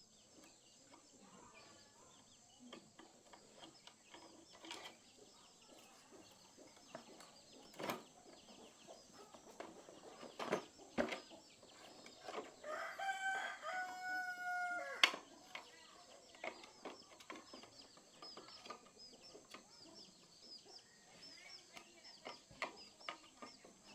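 A rooster crowing once, about halfway through, a drawn-out pitched call that breaks off sharply. Scattered sharp clicks and knocks around it.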